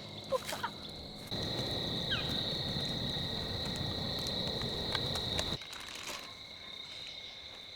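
Insects, such as crickets, trilling steadily at a high pitch. From about a second in until about five and a half seconds, a louder rushing noise comes in and then cuts off suddenly.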